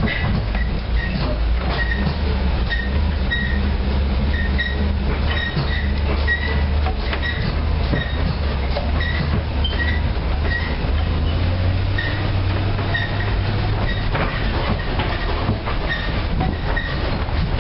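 GMC 366 gas V8 of a 1986 Blue Bird school bus running under way at low speed, its hum rising slightly about two-thirds of the way through. A regular high chirp repeats about twice a second over the engine, with scattered knocks and rattles from the bus.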